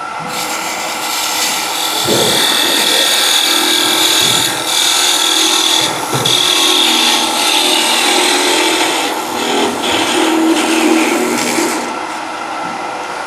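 Thin parting tool cutting into a wooden blank spinning on a wood lathe, a steady loud scraping hiss over the lathe's hum. The cut eases off near the end as the piece is parted off.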